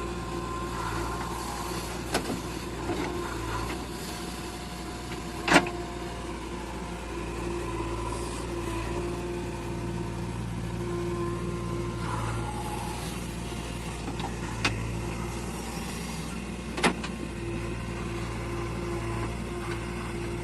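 Diesel engine of a JCB 3DX backhoe loader running steadily under work, with a few sharp knocks over it, the loudest about five and a half seconds in.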